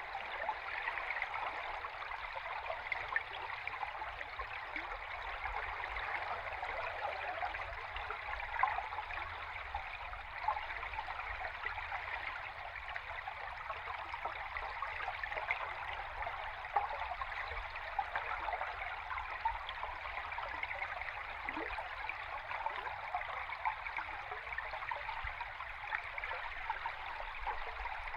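River stream water heard underwater: a steady rush of flowing water, with small clicks and pops scattered through it.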